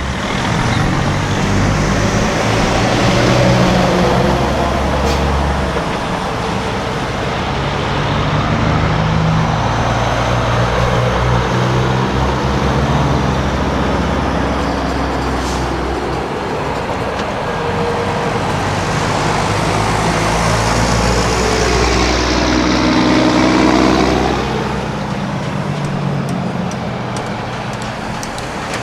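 Diesel semi-trucks running past, their engines droning, with one passing close and loudest about twenty-three seconds in.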